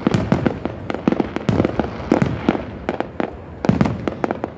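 Fireworks display going off, a rapid, irregular barrage of loud bangs and pops, several a second and overlapping.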